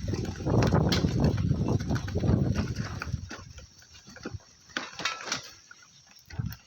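Bicycle rattling and bumping over a rough dirt track: a loud rumble with many knocks for about the first three seconds, then quieter scattered clicks and knocks.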